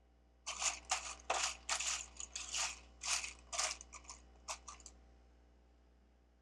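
Rustling and crinkling of Lego pieces and their packaging being handled: about a dozen quick, uneven bursts that stop about five seconds in.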